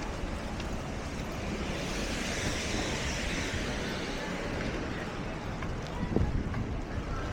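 Floodwater sloshing and splashing, with wind rumbling on the microphone. A hiss of water swells about two to four seconds in.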